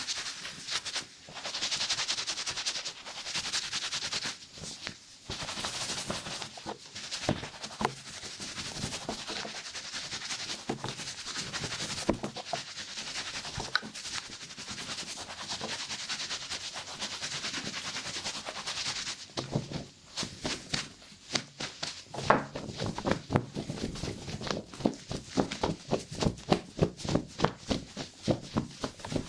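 Close-up barbershop ASMR prop sounds: a steady brushing, hissing rub for most of it, giving way about two-thirds through to fast, dense clicking and tapping.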